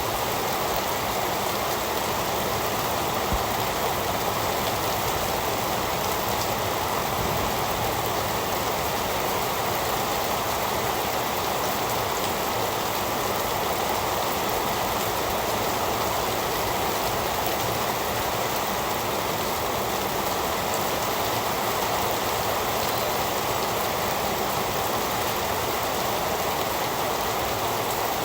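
Heavy rain falling steadily in an even hiss, with no thunder or other sounds breaking through.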